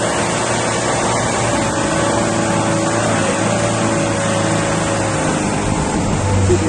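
Safari vehicle's engine running steadily as it drives, with a faint whine that wavers slightly in pitch.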